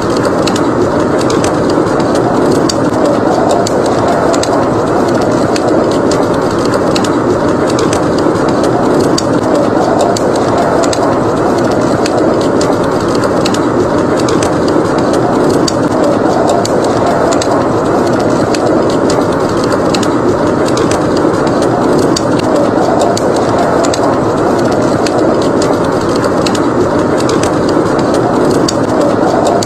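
Wood fire crackling in a fireplace, with frequent small sharp pops, over a steady roar of blizzard wind.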